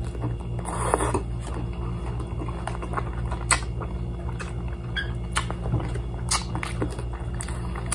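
Close-up eating sounds: a person chewing and biting into crispy fried chicken eaten by hand, with scattered small clicks and crackles and a louder smacking moment about a second in, over a steady low hum.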